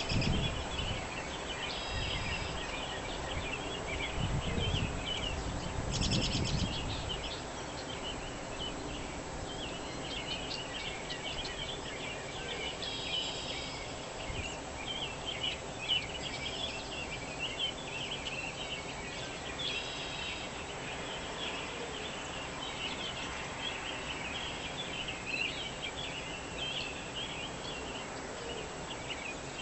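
Several songbirds chirping and singing together in a morning chorus, with rapid overlapping chirps throughout and a few louder repeated-note phrases now and then. A low rumble sits under the birdsong for the first several seconds.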